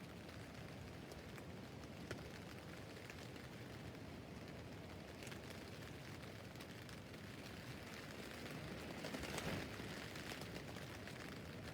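Rain pattering on a tent's fabric roof: a steady faint hiss of drops with scattered sharper individual drop hits, swelling briefly louder about nine seconds in.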